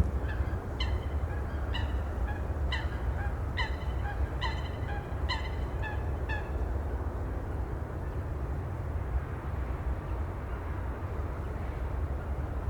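Steady low rush of sea and wind, with a bird giving short calls about once a second for the first six seconds or so, then only the sea.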